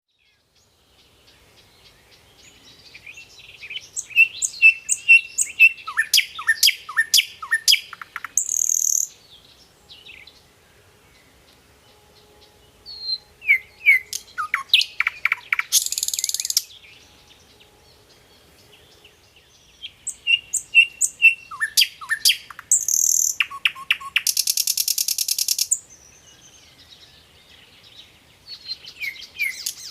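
A songbird singing in repeated bouts. Each bout is a rapid run of down-slurred chirps and trills ending in a harsh buzzy note. There are four bouts, with pauses of a few seconds between them.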